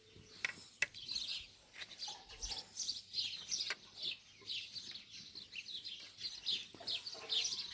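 Small birds chirping over and over in short, falling notes, with a few sharp clicks.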